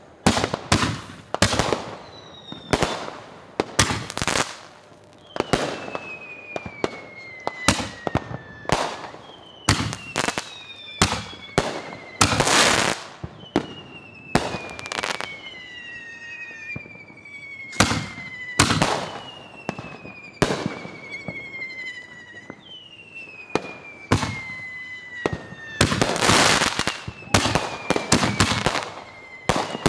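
Consumer firework cakes firing in quick succession: a steady run of sharp bangs, with a thicker cluster near the end. Between the bangs, several whistles overlap, each sliding down in pitch over two or three seconds.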